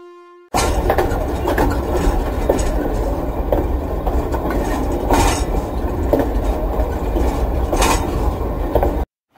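Train passing: a steady, loud low rumble of wheels on the rails with scattered sharp clacks. It starts suddenly about half a second in and cuts off abruptly near the end.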